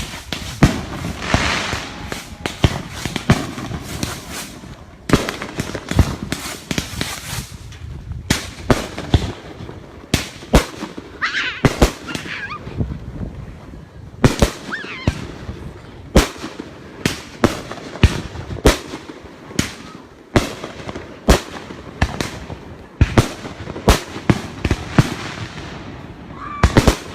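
Fireworks being set off from several spots around the lake: dozens of sharp bangs and booms at irregular intervals, with stretches of crackling.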